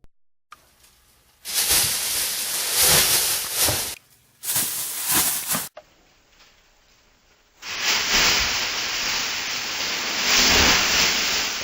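Loud rushing hiss in three stretches, the last lasting about five seconds.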